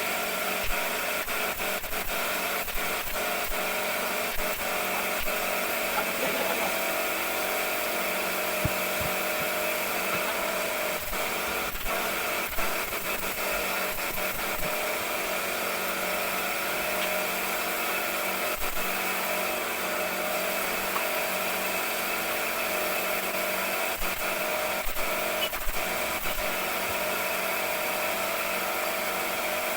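A power tool runs steadily throughout, with scattered short knocks and clicks.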